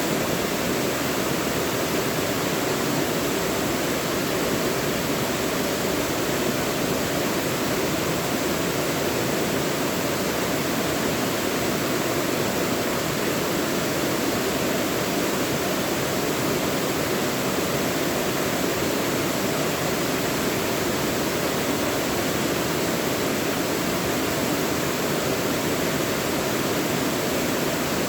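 Mountain stream rushing over rocks in a deep valley, a steady full rush of water with no change.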